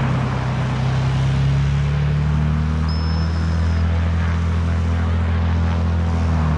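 An engine running steadily with a low, even hum, its pitch shifting slightly near the start and near the end. A short high whistle sounds briefly about three seconds in.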